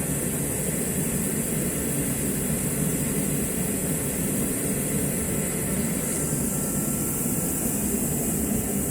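Steady low rumbling background noise with a high hiss over it, unchanging throughout.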